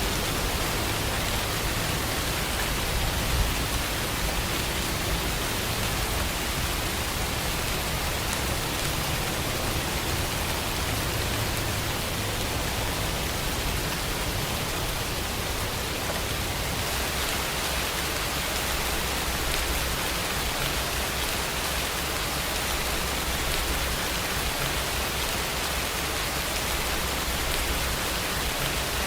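Steady, continuous rain falling, an even hiss of drops with a low background rumble; its tone shifts slightly about halfway through.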